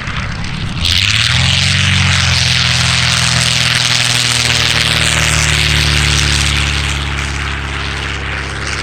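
A propeller-driven aircraft flying past, its engine coming in loud and sudden about a second in. The engine note drops slightly in pitch as it passes, and the sound fades a little near the end.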